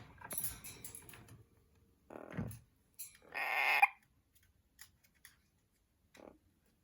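Amazon parrots calling: a short low sound, then a louder squawk lasting under a second about three seconds in, between scattered soft clicks and rustling.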